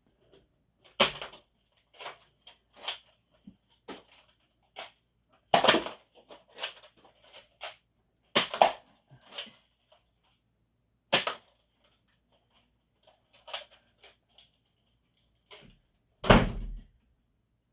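Irregular sharp plastic clacks and knocks from foam-dart (Nerf) blasters being primed and fired, with darts striking surfaces. The loudest knocks come about 1, 6, 8.5, 11 and 16.5 seconds in, with smaller clicks between them.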